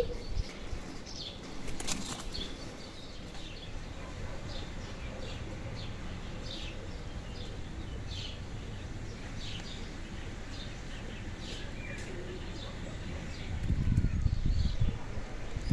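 Small birds chirping, short high calls repeated every second or so over a steady background. There is a sharp click about two seconds in and a low rumble near the end.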